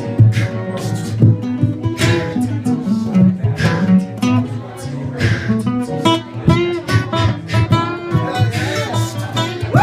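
Acoustic guitar being strummed in a steady rhythm, with a hint of voice over it.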